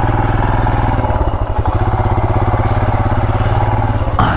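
Royal Enfield Himalayan's 411 cc single-cylinder engine running steadily at low revs, with an even, rapid exhaust thump. A brief click shortly before the end.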